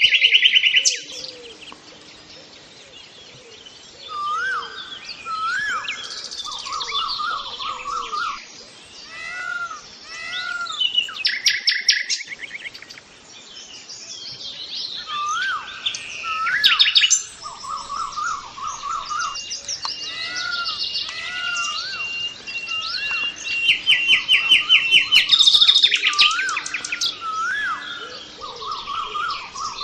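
Several birds chirping and singing at once. A short chirp repeats over and over, mixed with fast, loud trills that come and go, the loudest about a second in, near 12 s, near 17 s and again near 24 to 26 s.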